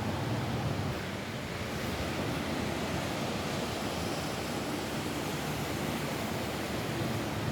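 Steady rain falling on a roof, an even hiss with no distinct drops or pauses.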